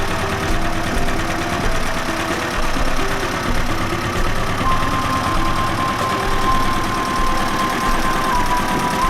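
Engine of a 1961 Kubota T18 tractor running steadily at idle, a rapid even firing beat.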